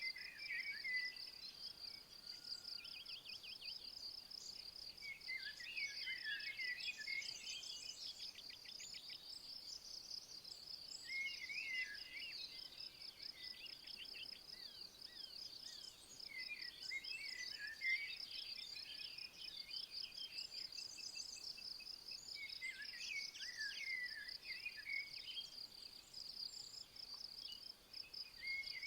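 A cricket-like insect chirring continuously in a high, rapid pulsing trill, with a songbird singing short warbled phrases about every five or six seconds.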